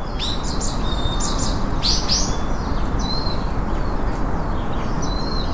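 Small songbirds chirping, a series of short high chirps and whistled notes, over a steady rushing noise that is louder than the birds.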